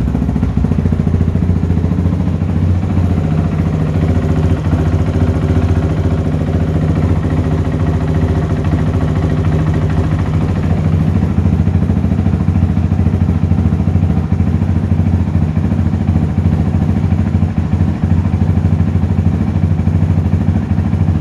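2022 Honda CRF450RL's 450 cc single-cylinder four-stroke engine idling steadily through a new FMF titanium exhaust, warming up to normal temperature without being revved.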